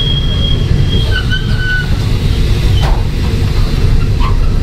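Taiwan Railways EMU300 electric train running, heard from the vestibule: a steady rumble of wheels on rail with a thin high squeal that drops in pitch and dies away about two seconds in, and a sharp click near three seconds in.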